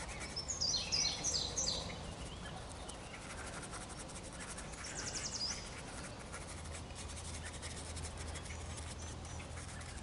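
Birds singing: a quick run of high chirping notes starting about half a second in and lasting over a second, then another rapid run of high notes about five seconds in, over faint steady outdoor background noise.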